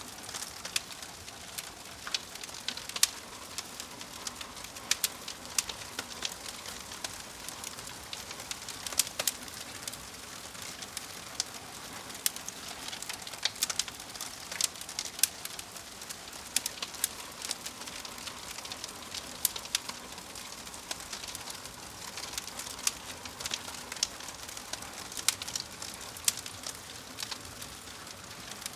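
Wood fire burning in a fireplace: irregular sharp crackles and pops, several a second, over a steady soft hiss.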